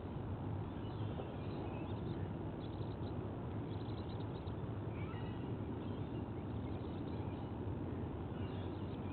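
Faint high chittering and squealing calls from white-bellied sea eaglets, in several short runs with a quick string of calls near the middle. They sit over a steady low background rumble.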